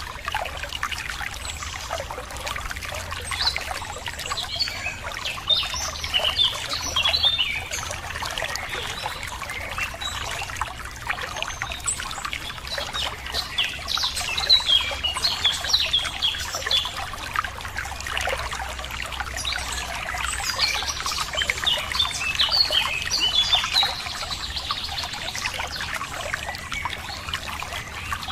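Water trickling and splashing steadily over stones, with several small birds chirping and singing on and off.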